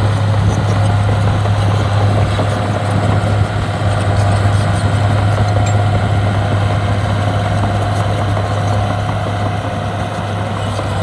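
Heavy diesel earthmoving equipment running steadily with a constant low engine hum.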